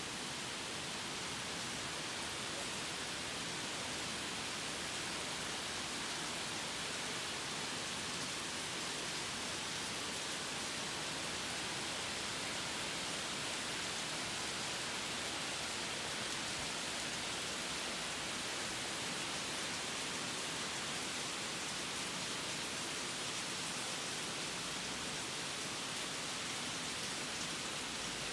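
Steady rain falling: an even hiss with a faint patter of drops, unchanging throughout.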